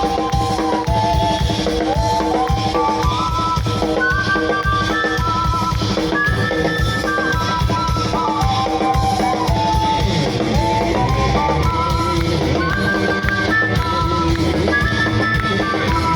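Live rock band playing an instrumental passage with no singing: a drum kit keeping a steady beat under a lead melody that steps up and down through short held notes.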